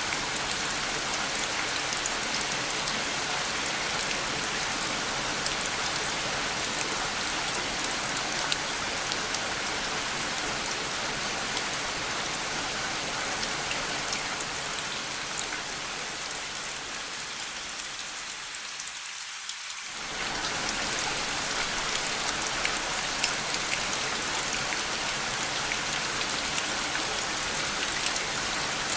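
Steady rain falling, with fine pattering drops. About two-thirds of the way through it thins and dips a little for a few seconds, then comes back full all at once.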